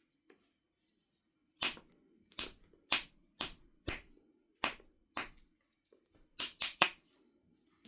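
Knife River flint biface being struck with a knapping tool: a series of sharp, bright clicks about two a second, then a short pause and a quicker run of three near the end.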